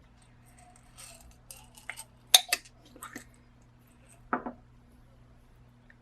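Light clinks and taps of small hard objects being handled: several in quick succession between about one and three seconds in, then one more a little past four seconds, over a faint steady low hum.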